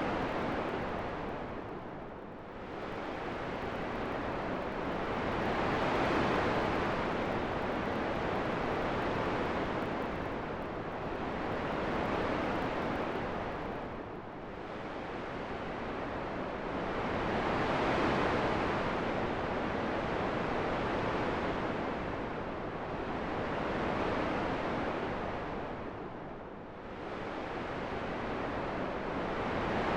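Wind blowing in slow gusts, an even rushing noise that swells and eases every few seconds, with deeper lulls about two seconds in, near the middle and near the end.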